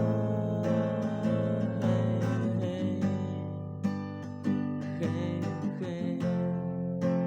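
Acoustic guitar strumming chords in a steady rhythm, playing on after the vocal has ended.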